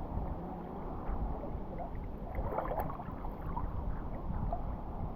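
River water sloshing and splashing as a person wades through it, with small irregular splashes throughout.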